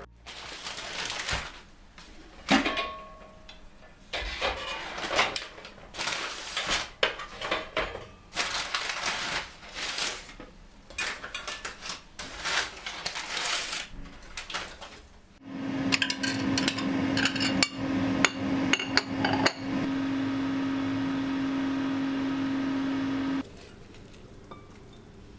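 Dishes, utensils and glassware clattering and clinking in a kitchen. Partway through, a kitchen appliance starts a steady hum under the clatter, runs for about eight seconds and cuts off suddenly.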